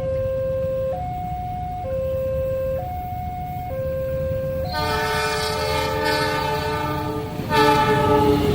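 Level crossing warning alarm sounding two alternating electronic tones, switching about once a second. About five seconds in, an approaching locomotive's multi-chime horn gives a long blast, then a short second blast near the end.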